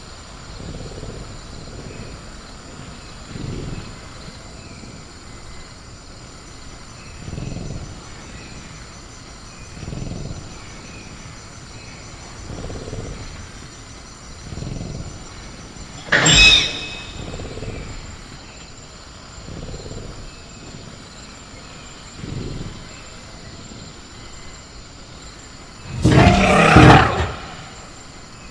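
Sound-designed velociraptor creature breathing in low growling swells about every two seconds, over a steady high cricket drone. Just past halfway there is a sharp loud bang, and near the end a loud roar lasting about a second.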